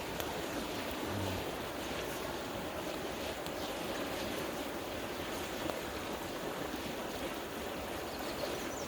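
River water rushing steadily, with faint scattered crackles from a campfire.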